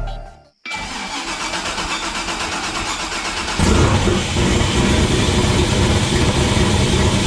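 Twin-turbo LS V8 in a Camaro cranking on the starter for about three seconds, then catching and running: the engine being fired up for the first time after the build.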